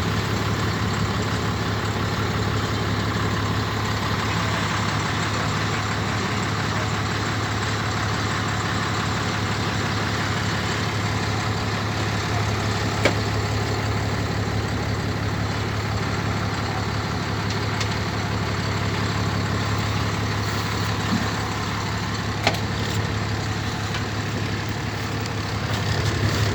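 Heavy truck engine idling steadily, with a constant low hum. Two short clicks come partway through.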